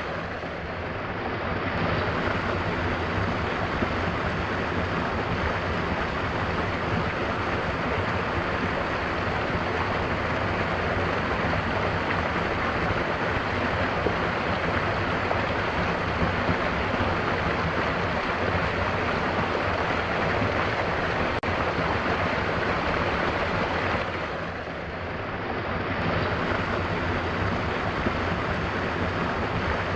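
Mountain waterfall rushing in a steady, dense roar of water, dipping briefly in level near the start and again about three-quarters of the way through.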